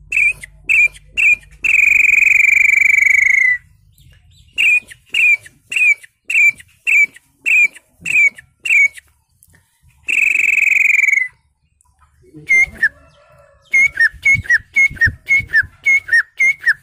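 A man whistling by mouth, with no device, in imitation of birdsong. Runs of short chirping notes are broken by two long held notes that dip at the end. Near the end comes a quicker series of short down-slurred notes, about three a second.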